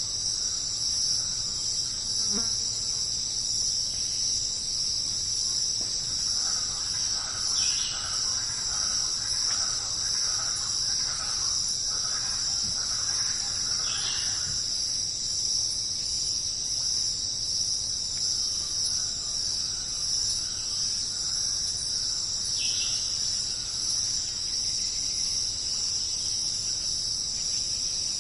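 Chorus of crickets: a steady, unbroken, high-pitched trilling. A few faint short chirps sound about a third of the way in, half way through and near the end.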